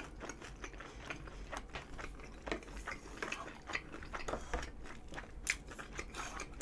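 A person chewing a mouthful of curry and fried food, making a steady run of small irregular wet clicks and crunches.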